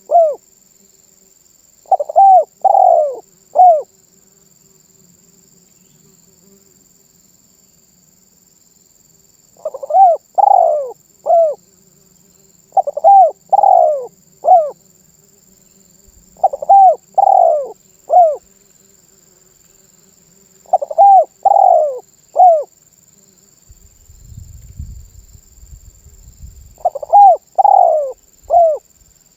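Spotted dove cooing: phrases of three or four arched coos, the last note short, repeated six times a few seconds apart. A faint low rustle comes about 24 seconds in.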